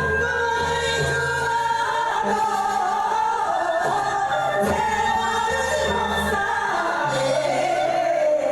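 Live music: a singer holding long, wavering notes over a band accompaniment with a changing bass line.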